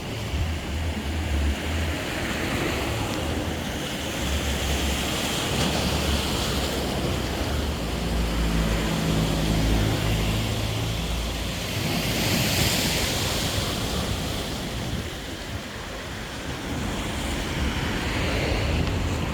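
Sea waves washing onto the shore, swelling and falling back several times, with wind rumbling on the microphone.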